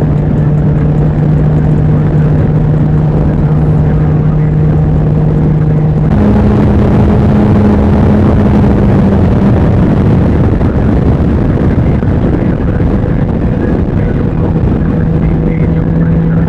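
Can-Am Ryker three-wheeler engine running under way at a steady pace. Its pitch steps up about six seconds in and eases back somewhat near the end.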